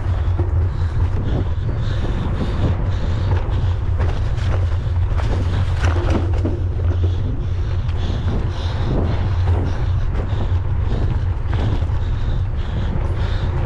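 Wind buffeting the camera microphone as a mountain bike is ridden at speed, a steady low rumble, with frequent rattles and knocks from the bike over rough trail.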